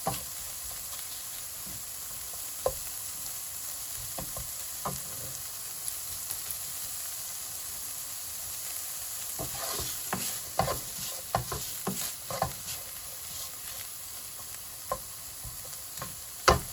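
Vegetables stir-frying in hot oil over high heat: a steady sizzle, with a spatula clicking and scraping against the pan now and then, more often in the second half and once loudly near the end.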